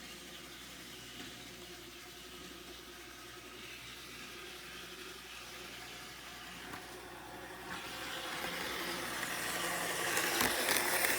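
N-gauge model train running on the track, a steady whir and rumble of motor and wheels. It grows louder over the last few seconds as the train comes closer.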